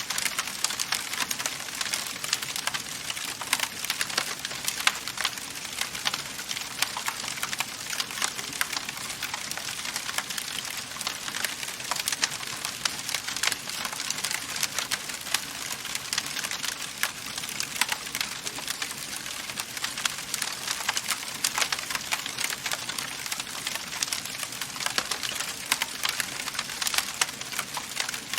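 Wood fire crackling in a fireplace: a steady hiss with dense, irregular small pops and snaps throughout.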